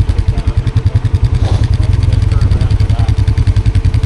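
ATV engine idling with a fast, even pulsing beat.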